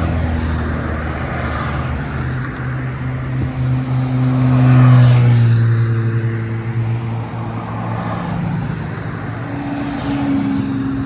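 Classic car engines running, one passing close and loudest about halfway through before fading, with another engine at a higher pitch coming in near the end.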